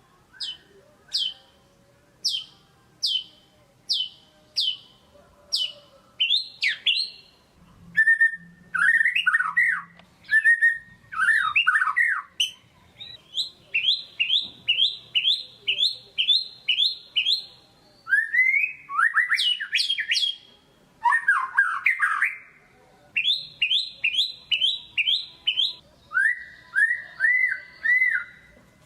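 White-rumped shama (murai batu) singing a loud, varied song: first a series of about eight sharp down-slurred whistles, roughly two a second, then warbled phrases and fast runs of repeated notes, in bursts with short pauses between.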